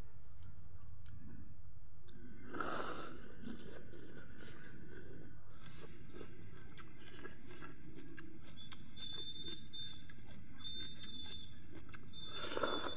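A person chewing and crunching food close to the microphone, with wet clicking mouth sounds, and two louder bites or mouthfuls about two and a half seconds in and near the end.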